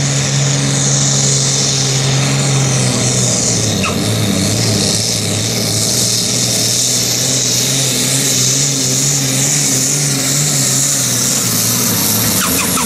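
Modified pulling tractor's diesel engine running hard at steady high revs under load, its pitch holding nearly level with slight wavering.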